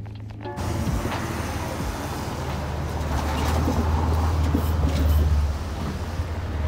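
Motor vehicle running with a steady low drone under wind and road noise, swelling a little in the middle; music cuts off about half a second in.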